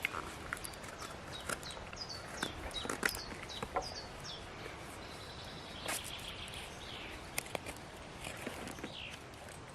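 Knife blade cutting into wood in short, irregular strokes and scrapes as a spoon is carved by hand, with short falling bird chirps in the background about two to four seconds in.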